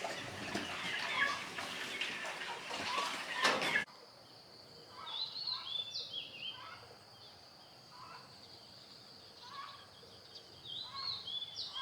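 Birds calling and chirping, busy and louder at first. After a sudden cut about four seconds in, a bird's short falling call repeats every couple of seconds over a steady, thin insect drone.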